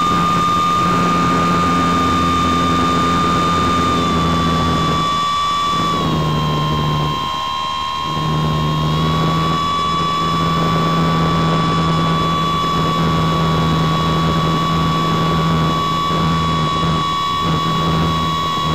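Onboard sound of an RC motor glider's motor and propeller running under power: a steady high whine over rushing air. The pitch drops slightly about six seconds in and rises again a few seconds later as the throttle changes.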